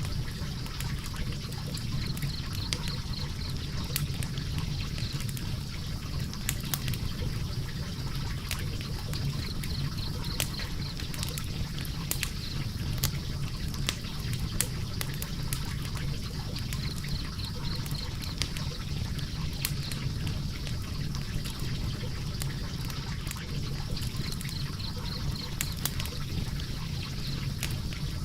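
Logs burning in a fireplace: a steady low rush of flames with frequent sharp crackles and pops.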